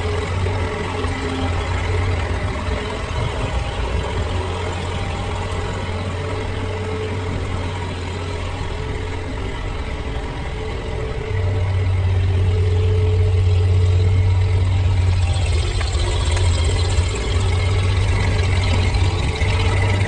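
Tractor engine running steadily, growing louder about halfway through.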